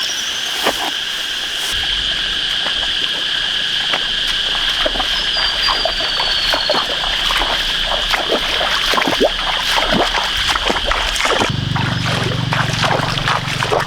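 Water and mud splashing and sloshing in irregular strokes, as someone wades and works by hand in a shallow muddy pond, over a steady high-pitched drone. A low rumble grows stronger near the end.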